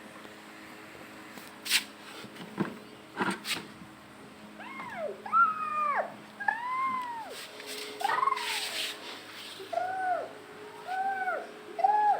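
A cat meowing over and over, a series of short rising-and-falling meows starting about four seconds in, after a few sharp clicks.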